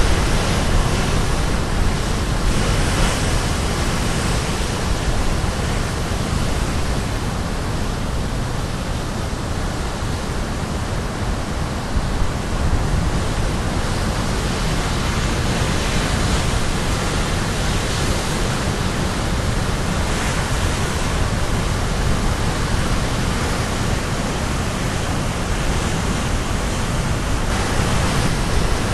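Caribbean Sea surf breaking on a rocky shore: a continuous rushing wash of waves that swells and eases, thinning a little around ten seconds in and building again after, with some wind on the microphone.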